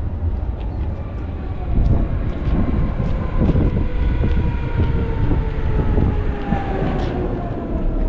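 A large passing vehicle: a heavy low rumble with a whine that falls slowly in pitch, as when it slows down.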